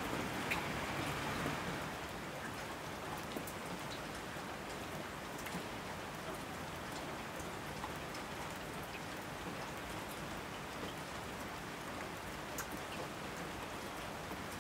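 Steady rain, an even dense hiss with scattered sharp ticks of single drops. It is a little louder for the first couple of seconds, then settles.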